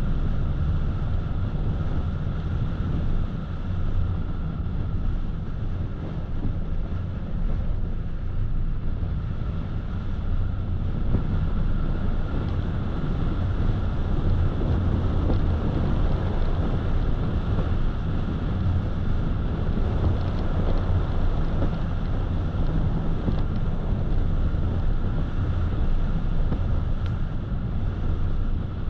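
Car driving at a steady speed: a continuous low rumble of tyres on the road and the engine, with some wind noise.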